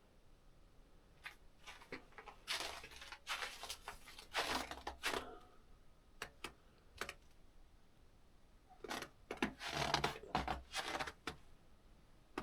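Snow crunching and swishing as someone wades through deep snow, in two spells of a few seconds each.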